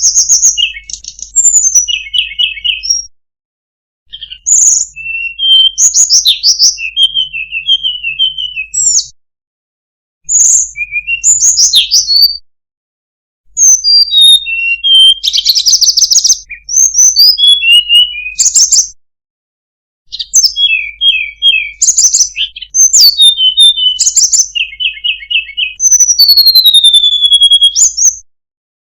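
Tledekan gunung songbird singing: phrases of clear whistles, rising and falling glides and quick rattling trills, repeated about every four to five seconds with short silent gaps between them.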